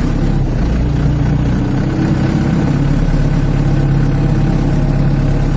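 Ford 755 tractor-loader-backhoe's diesel engine running steadily at a low, even speed, heard close from the operator's seat.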